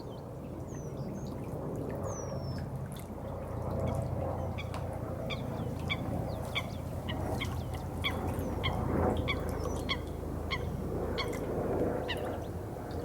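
Steady running water with birds calling over it: a few thin falling whistles early on, then a regular series of short chirps, about three a second, through the middle.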